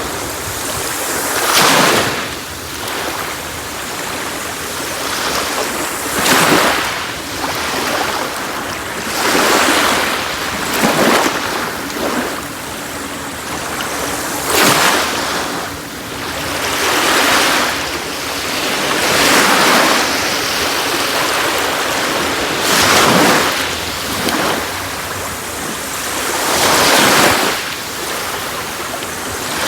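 Sea waves breaking on a beach, about one surge every three to four seconds over a steady wash of surf.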